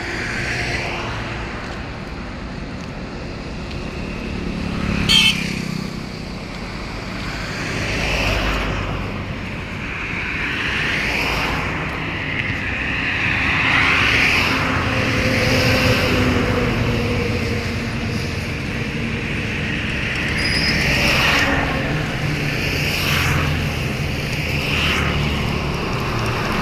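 Diesel engine of a Sany motor grader running, its level swelling and easing every few seconds. A short sharp noise about five seconds in is the loudest moment.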